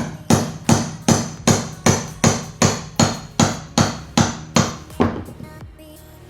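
A hammer strikes a chisel in a steady rhythm, about two or three blows a second, driving it under aluminum floor trim to break it loose. The blows stop about five seconds in.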